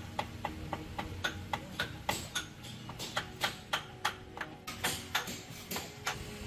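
A quick, uneven series of sharp clicks or taps, about three to four a second, over a low steady hum.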